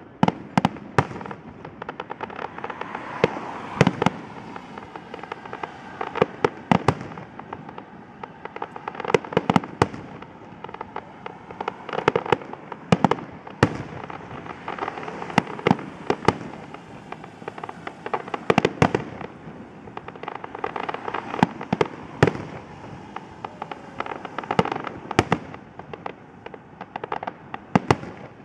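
Fireworks display: aerial shells bursting in an irregular string of sharp bangs, at times several in a second, over a continuous background rumble and crackle.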